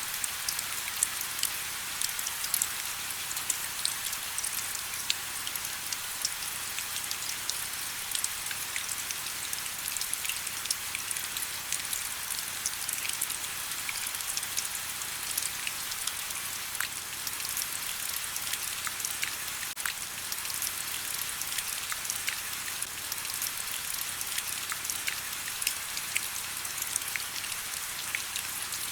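Steady rain, a constant hiss with many sharp individual drops pattering on hard surfaces.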